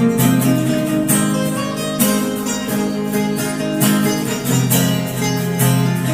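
Acoustic guitar strumming chords in a steady rhythm, an instrumental passage without singing.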